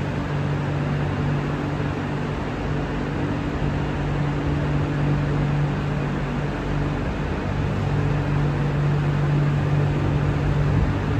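Steady low mechanical hum with constant droning tones from a train standing in the station, its onboard machinery running.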